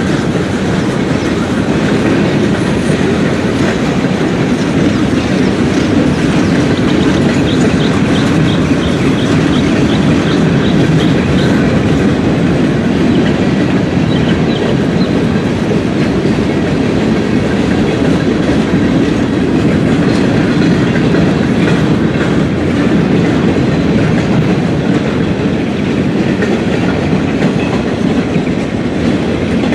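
Freight train cars rolling past, their steel wheels clicking over the rail joints over a steady rumble.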